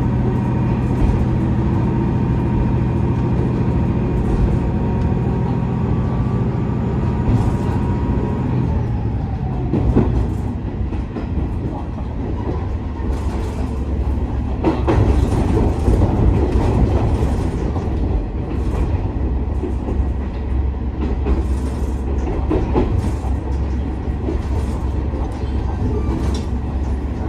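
Interior sound of a KiHa 47 diesel railcar under way: its diesel engine runs steadily, then its note drops away about eight or nine seconds in as power comes off. After that the train rolls on with a rumble and scattered clicks from the wheels over rail joints.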